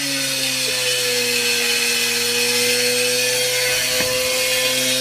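Washing machine loaded with bricks spinning at high speed: a steady motor whine over a loud rushing hiss, the pitch sinking slightly in the first second and then holding, with one faint knock about four seconds in.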